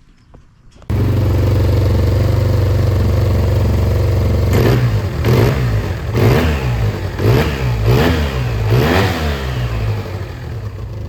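Yamaha TMAX 530 parallel-twin engine running at idle, then revved up and down about six times before settling back to idle. The revs demonstrate the noise it makes on acceleration, which the owner takes for a slipping clutch.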